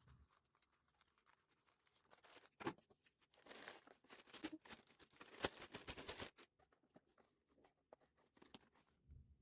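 Faint rustling and scattered clicks of things being handled by hand, with a sharp click about two and a half seconds in and a denser crackly patch in the middle.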